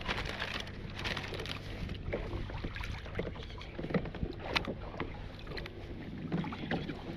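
Sounds aboard a kayak on open water: water sloshing against the hull and scattered small knocks and clicks, two sharper ones about four and four and a half seconds in, over a low wind rumble on the microphone.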